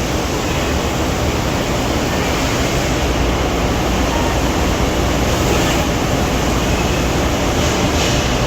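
Steady hum and hiss of a 600-ton Accurpress CNC press brake's hydraulic pump motor running, with the level holding even throughout.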